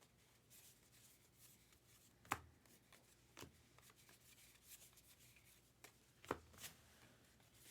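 Faint handling of trading cards: soft rustling as cards slide off a stack and are flipped, with a few sharp clicks, the strongest about two seconds and six seconds in.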